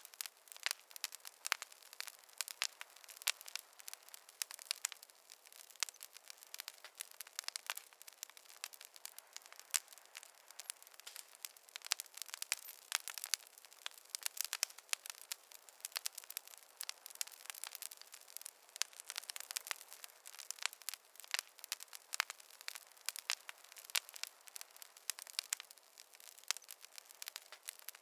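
Wood fire crackling and popping: many sharp, irregular snaps with a faint hiss between them.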